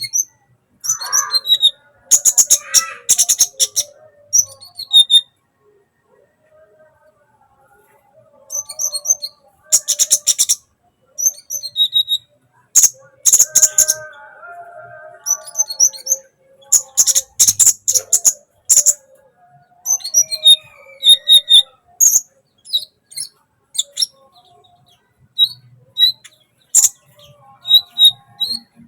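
A kolibri (sunbird) chattering in song: bursts of rapid, high clicking trills mixed with short chirps and softer warbled notes, with brief pauses between phrases.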